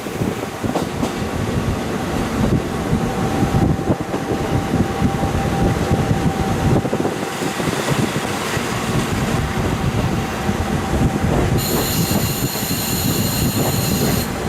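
KiHa 40 diesel railcar running along the track, heard through a fully open window: a steady rumble of wheels and engine with scattered rail clicks, and a thin steady squeal for most of the stretch. Near the end a shrill high ringing sound joins in for about three seconds.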